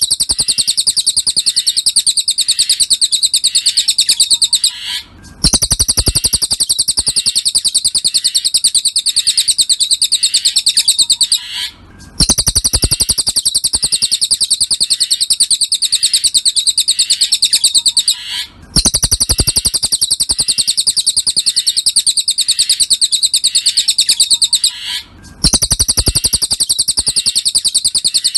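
Cililin bird song: a rapid, high-pitched run of repeated chirps, about ten notes a second, in phrases of roughly six seconds separated by brief pauses, repeating like a loop.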